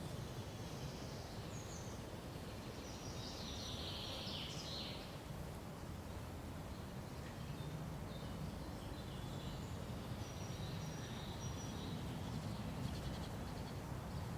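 Forest birds chirping and trilling in scattered high calls, in two busy spells, over a steady low background rumble.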